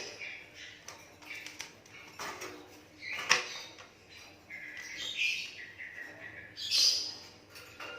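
Asian pied starling (jalak suren) calling: a series of harsh chirps and squawks, the loudest about three seconds in and again near seven seconds.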